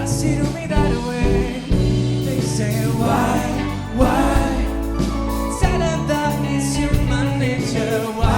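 A live band playing a soft pop-rock ballad: a lead voice sings phrases with vibrato over steady bass notes and cymbals.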